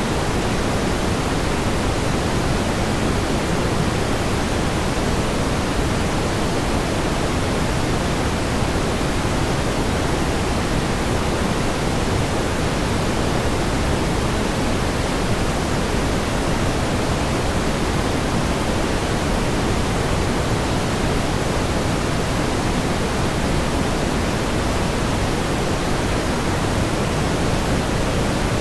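Steady pink noise: an even, unchanging hiss, fuller in the low end than in the highs, with no events or changes.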